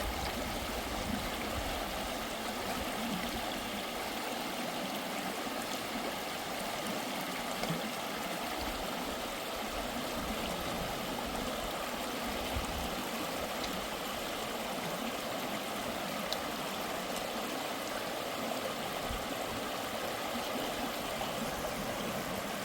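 Stream flowing with a steady rush of water.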